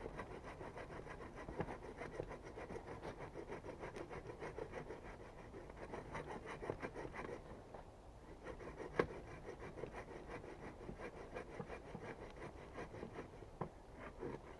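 Rhythmic scraping on wood, about three quick strokes a second, with a short break about eight seconds in and a few sharp knocks.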